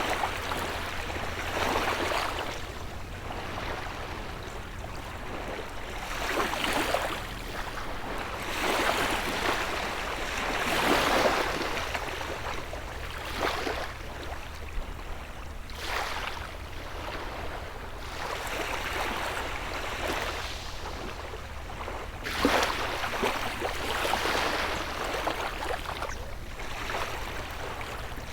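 Gentle sea waves breaking and washing up the shore, a new surge every few seconds, with a louder break about eleven seconds in and another near twenty-two seconds. A low steady hum runs underneath.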